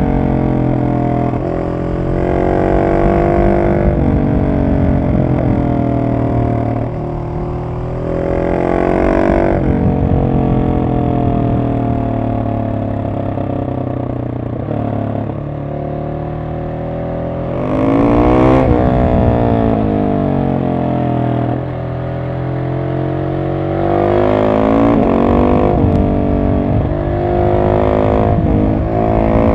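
Husqvarna 701 SM supermoto's single-cylinder four-stroke engine running through an Arrow exhaust with the catalytic converter removed, pulling hard several times with the pitch climbing, then easing off with the pitch falling between pulls.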